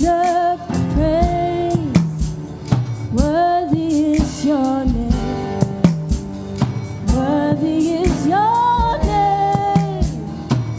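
A church praise team singing a gospel worship song with band accompaniment. The voices hold long, gliding notes over sustained instrument chords, with a steady drum beat.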